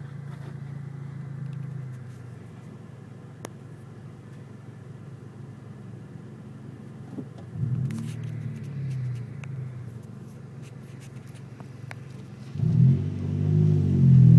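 Car engine idling, heard from inside the cabin, with a brief rev about 8 seconds in. Near the end the engine gets louder and revs up and down as the car pulls away.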